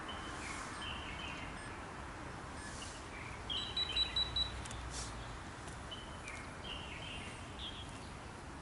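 Small birds chirping over a steady outdoor hiss, with a quick run of louder high chirps about halfway through.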